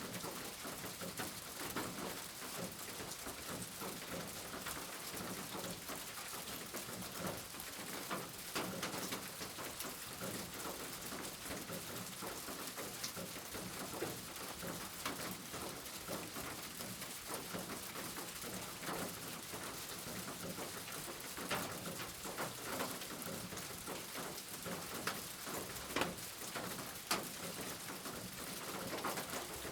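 Steady rain falling, with individual drops striking a hard surface as sharp, irregular ticks over the even hiss.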